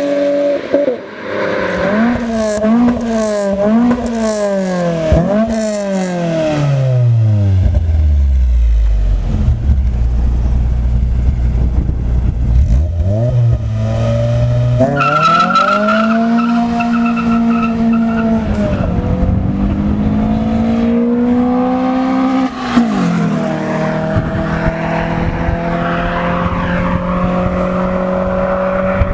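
Car engine revved in several quick blips, then dropping to a low, steady idle. It then climbs in pitch and holds a steady high speed, with a brief dip about twenty-two seconds in.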